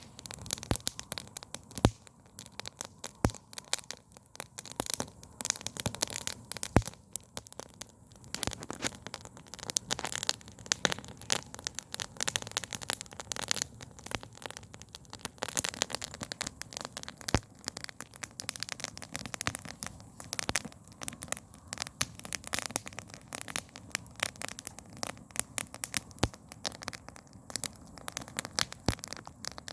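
Wood campfire crackling: irregular sharp pops and snaps from the burning logs over a steady faint hiss.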